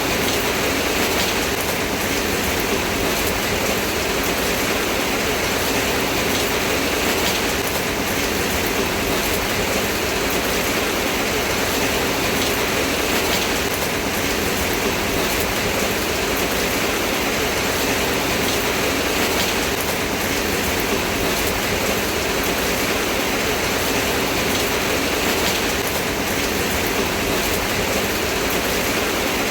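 Steady rain falling: a dense, even hiss with scattered sharper drop hits.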